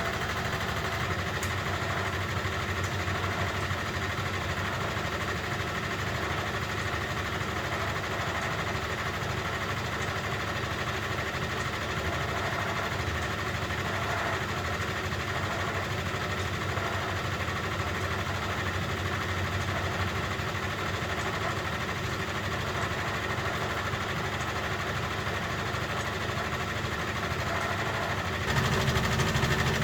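A 1971 Constructa Garant 491 washing machine running steadily, a constant mechanical hum and rumble. Near the end it suddenly gets louder and deeper.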